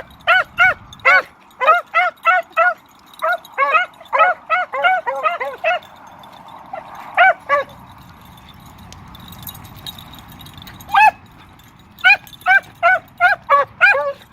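Beagles baying on a scent line in short, rapid chop barks, several a second. The calling breaks off for several seconds in the middle, with only a call or two, as the hounds overrun the line, then resumes densely near the end.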